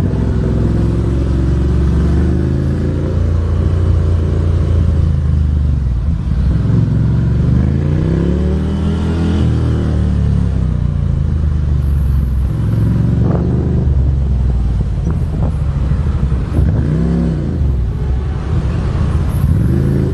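Road vehicle engines running continuously in traffic. The engine pitch rises and falls several times, as vehicles pass or rev.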